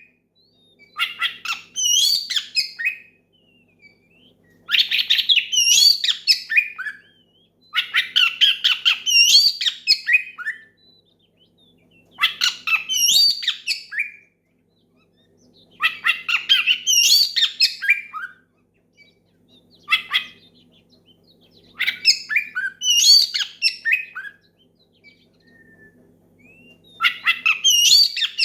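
Oriental magpie-robin (kacer) singing loudly in phrases of rapid, varied whistles and chirps, about seven phrases with short pauses between them: a rival-calling song.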